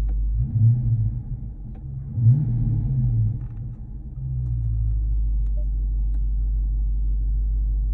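Dodge Charger R/T's 5.7-litre Hemi V8 idling, blipped twice in the first few seconds: the revs rise and fall back, then it settles to a steady idle.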